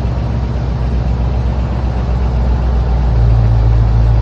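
1957 Chevy truck's engine idling steadily, a low, even hum that grows slightly louder about three seconds in.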